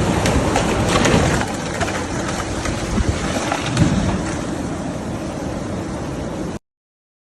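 Thunderstorm rain and wind: a steady rushing noise with scattered crackles, cutting off abruptly about six and a half seconds in.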